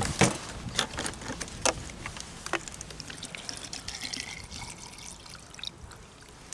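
Water being poured into a cooking pot, trickling steadily, with a few sharp clicks in the first few seconds.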